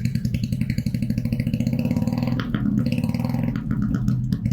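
Kawasaki Vulcan 400 V-twin running through a straight-type muffler, a loud, lumpy, pulsing exhaust beat described as thunder-like. About halfway through, the engine note lifts briefly, then settles back.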